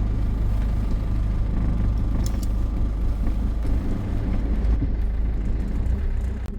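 Motorhome engine idling just after being started, a steady low rumble.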